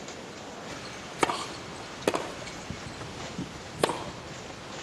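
Tennis rackets striking the ball during a rally: three sharp pops, the first two close together and the third nearly two seconds later, over a steady background hiss.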